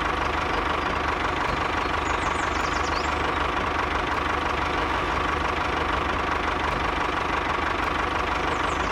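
Small engine of a mini model tractor idling steadily, just after being started.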